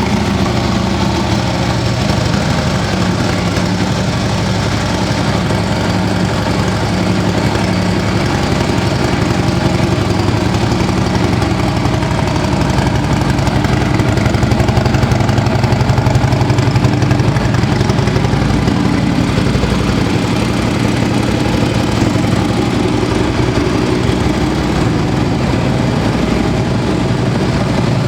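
2015 Harley-Davidson Street Glide Special's Twin Cam 103 V-twin idling steadily just after a start, a little louder for a few seconds around the middle.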